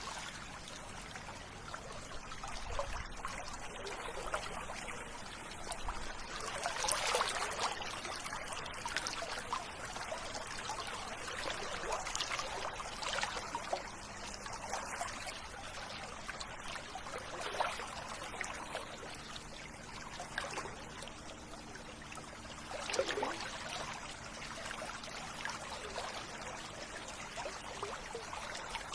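River water running steadily, with louder splashing surges every few seconds.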